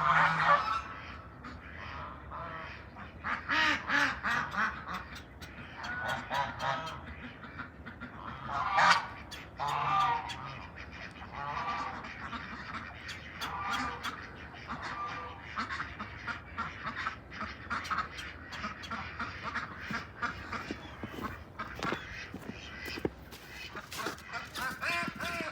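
Domestic waterfowl honking and calling in a flock, a burst of calls every few seconds. Many short sharp clicks are heard through the second half.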